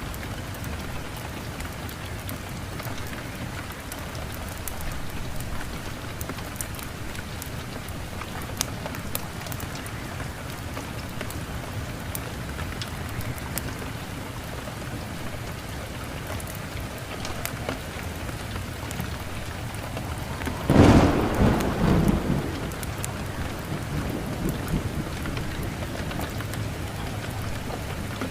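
Steady rain with scattered sharp ticks, and a clap of thunder about three-quarters of the way through that rumbles for a second or two before fading.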